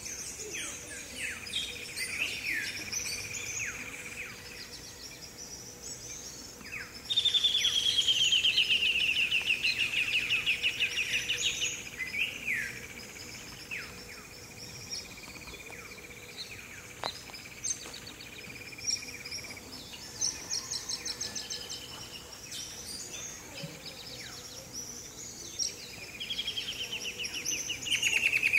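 Several birds singing and calling, with many short downward-sliding chirps. One bird repeats a loud song of rapid notes falling in pitch, lasting about five seconds, a quarter of the way in and again near the end.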